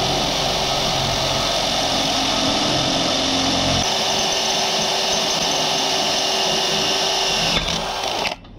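A handheld power tool's motor running steadily and loudly, its low-pitched part shifting a little over halfway through, then cutting off abruptly near the end.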